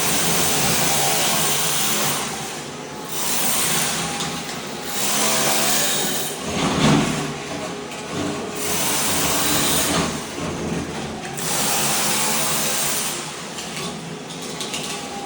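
Ride-on floor scraper running, its blade scraping thin-set tile mortar off a concrete slab. The scraping comes in loud hissing surges of a second or two with short dips between them, and there is a heavier knock about seven seconds in.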